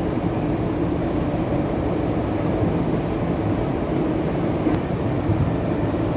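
EP2D electric multiple unit running along the track: a steady low rumble of wheels on rail with a constant hum, and one faint click near the end.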